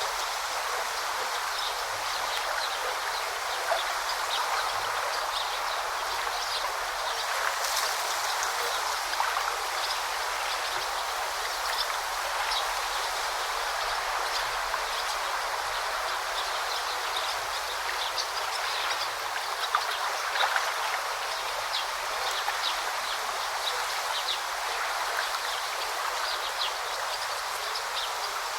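A forest stream babbling steadily: an even rush of water, flecked with many small, quick splashes.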